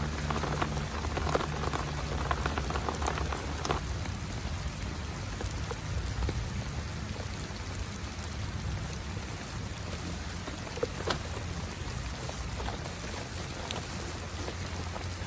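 Heavy rain falling steadily, with scattered sharp drop taps that are thickest in the first four seconds.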